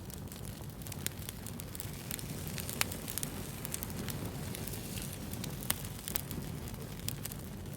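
Wood fire burning, with scattered sharp crackles and pops over a low steady rush of flames. The loudest pop comes about three seconds in.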